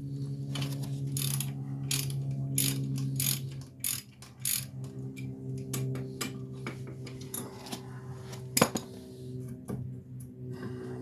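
Hand ratchet wrench clicking in quick runs as bolts are worked on the wheel bearing hub, with a single sharper metallic click late on, over a steady low hum.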